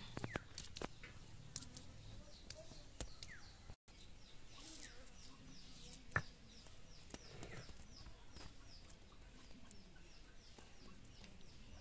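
Scattered light clicks and knocks for the first few seconds. After a brief dropout, a bird calls a rapid run of short, high, falling chirps, about three a second, with one sharp click near the middle.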